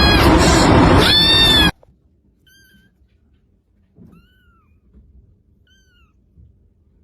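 Kitten meowing loudly, with two rising-and-falling meows that stop abruptly under two seconds in. Three faint, short, high kitten mews follow, spaced out over near quiet.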